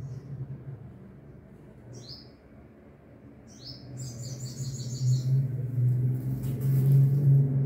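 Birds chirping: a few short falling chirps, then a quick twittering run about four seconds in. Under them runs a low steady hum that grows louder in the second half and becomes the loudest sound.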